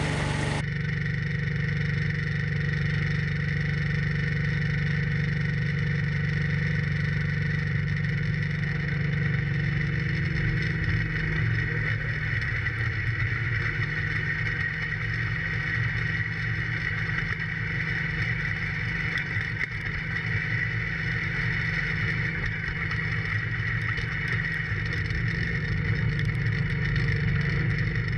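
John Deere 4110 compact tractor's three-cylinder diesel engine running steadily while plowing snow. Its note dips briefly and recovers about halfway through.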